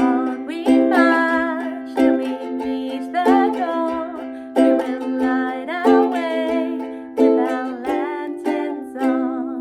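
Ukulele strummed through the closing chords of a song, a strong strum roughly every second, with the last chord left ringing near the end.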